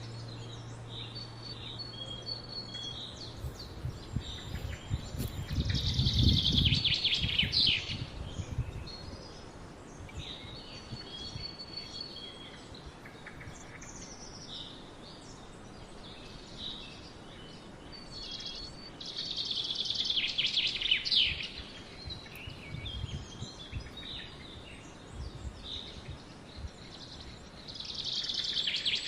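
Small woodland birds singing and calling. A louder song phrase lasting a couple of seconds comes three times: about five seconds in, about twenty seconds in, and near the end. A low rumble sits under the first of these phrases.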